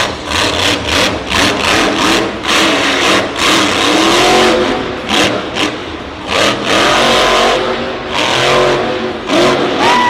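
Monster truck engines revving hard, the pitch rising and falling several times, over a rapid run of sharp cracks.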